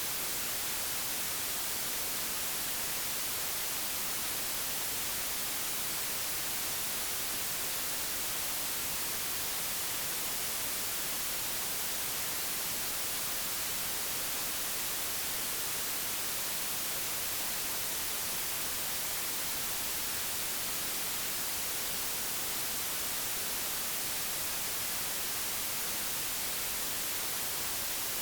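Steady digitally generated white noise: an even, unchanging hiss, brightest in the treble, with no other sound.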